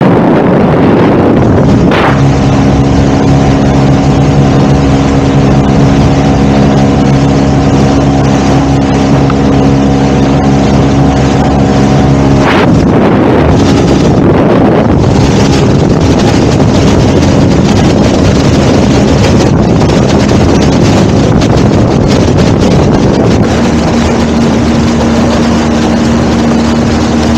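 Speedboat running at speed: a loud, steady rush of water and wind over the engine's drone. The engine tone changes suddenly about 2 and 12 seconds in, and a steady low hum comes in near the end.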